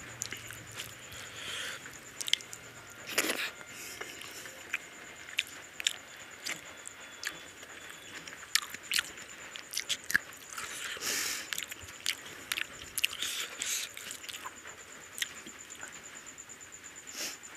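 Close-up eating of rice and curry by hand: wet chewing and irregular lip-smacking clicks, with fingers mixing the rice and gravy on a plate.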